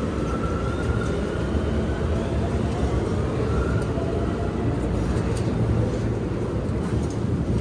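Steady low rumble of a Keio Line commuter train standing at a station platform during boarding, with faint whines that rise slightly in pitch.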